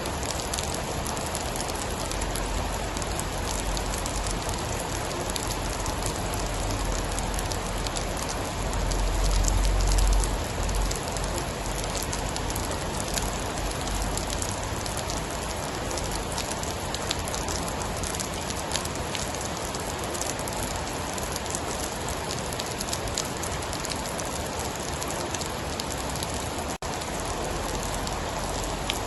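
Steady heavy rain with dense, fine drop patter. About a third of the way in a low rumble of distant thunder swells and fades, and near the end the sound drops out for an instant.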